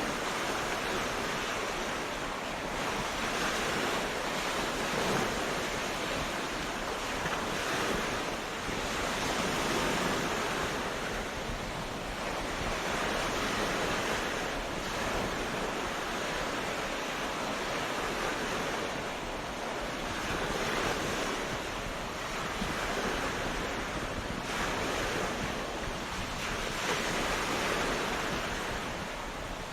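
Ocean waves washing onto a beach, a continuous surf hiss that swells and eases every few seconds as each wave breaks and draws back, with some wind.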